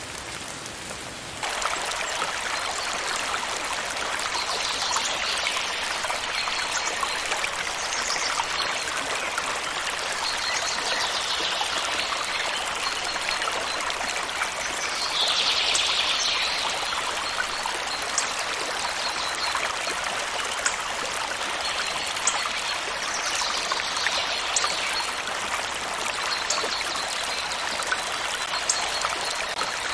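Rain falling, cut off abruptly about a second and a half in by a steady rush of a flowing stream, which runs on with small surges in its splashing.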